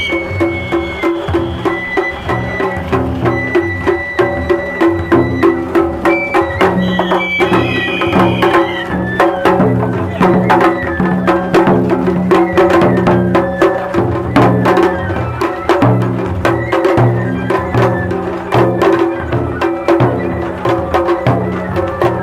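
Japanese festival hayashi music played live: drums struck in a quick, steady rhythm, with a high flute phrase about seven seconds in.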